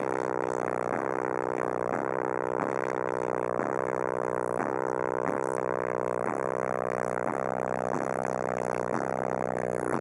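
Car audio system with 18-inch DC Audio XL subwoofers playing a deep, droning bass track, pulsing in an even repeating pattern about every 0.7 seconds.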